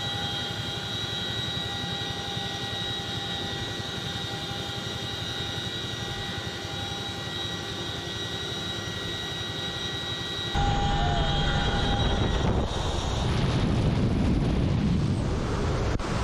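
CH-47 Chinook helicopter's turbines running, a steady whine of several high tones. About ten seconds in the sound changes abruptly to a much louder, deep rushing noise.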